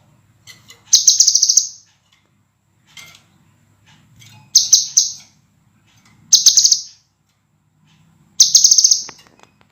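Scarlet minivet singing: four short, loud bursts of rapid, clear, high repeated notes, each under a second and a couple of seconds apart, with faint softer notes between them.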